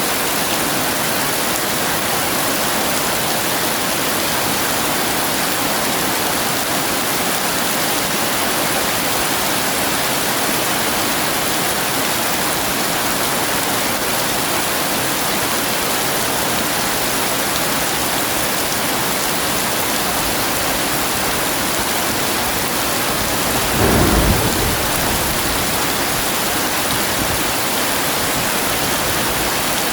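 Heavy rain falling steadily, with one low thunder rumble swelling about three-quarters of the way through.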